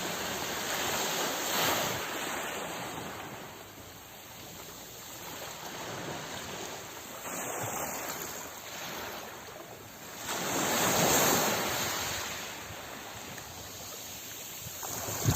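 Sea waves washing onto the shore, a steady rush that swells and falls back with each wave. The biggest surge comes about two-thirds of the way through.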